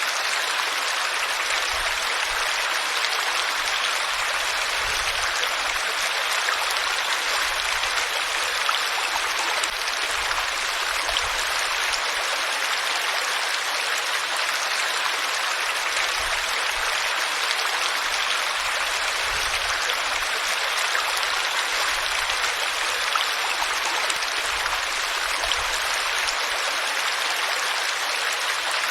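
Flowing water rushing steadily and evenly, without breaks.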